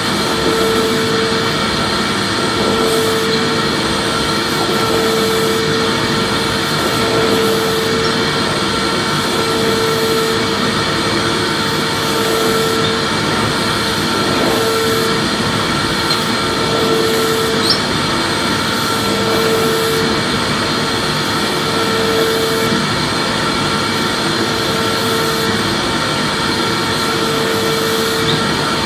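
Vacuum cleaner running steadily: a continuous rush of air with a motor hum. A tone in the lower middle swells and fades about every two and a half seconds.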